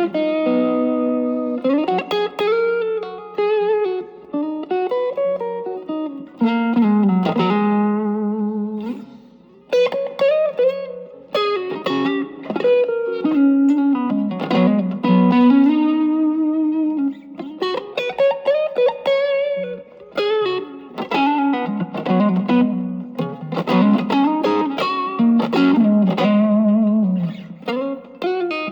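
Electric guitar played through an Ibanez TS-808 Tube Screamer reissue fitted with a 1980 Malaysian RC4558P op-amp chip, set for boost, with the guitar's volume knob rolled back to clean up the tone. It plays picked melodic lines with bends and vibrato.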